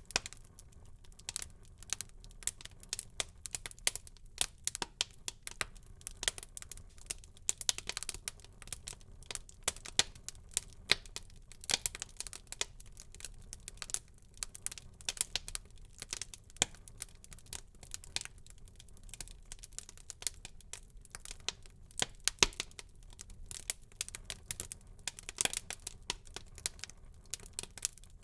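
Wood fire burning in a fireplace, crackling with irregular sharp pops and snaps over a faint low rumble of the flames.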